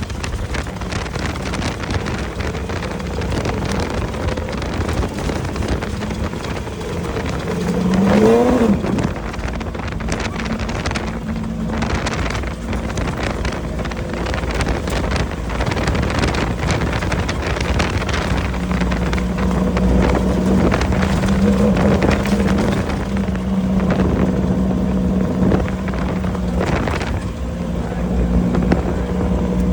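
Off-road race vehicle's engine running under way, with wind noise on the microphone. The revs rise sharply about eight seconds in, and there are a few sharp knocks later on.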